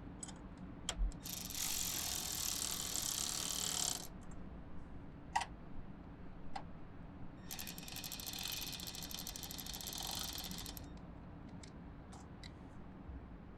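Milwaukee M12 cordless ratchet running in two spells of about three seconds each, spinning nuts down tight, with a few short metal clicks in between.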